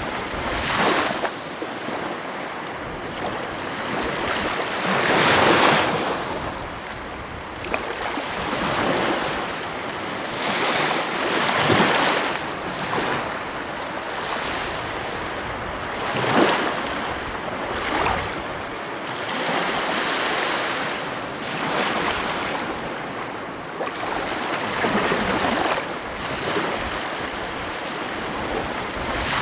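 Heavy ocean waves breaking on the coast: a continuous rush of surf that swells into a louder crash every few seconds and falls back.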